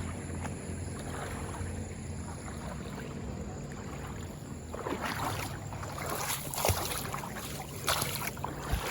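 Water of a flooded river splashing and sloshing. A steady low hum runs underneath, and from about halfway in a series of louder splashes comes in.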